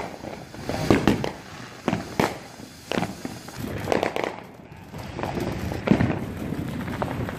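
Consumer fireworks going off: a string of sharp pops and bangs, roughly one a second, over a hissing background.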